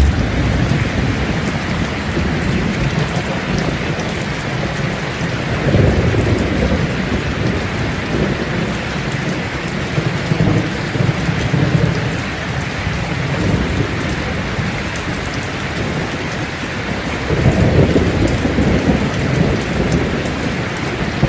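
Steady rain falling, with thunder rumbling low in the background; the rumbles swell a few times, the strongest a little before the end.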